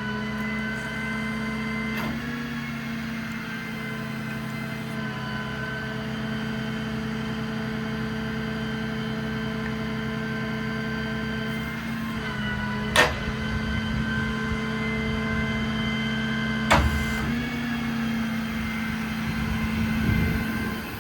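Ram 5500's Cummins diesel engine running steadily, with three sharp clunks spread through it, the loudest about halfway.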